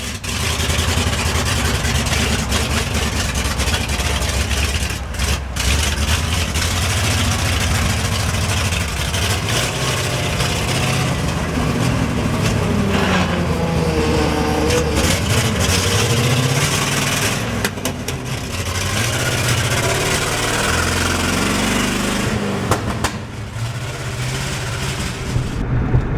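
1971 International 1890 truck's engine running under load while driving, its revs rising and falling several times.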